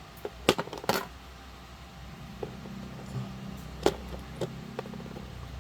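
Small hard gel blaster gearbox parts clicking and clacking as they are handled and set down: a few sharp knocks about half a second and a second in, and again near four seconds, over a low steady hum.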